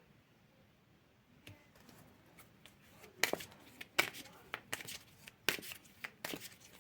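Tarot cards being handled: irregular sharp snaps and slaps of cards, sparse at first and coming every half second or so from about three seconds in.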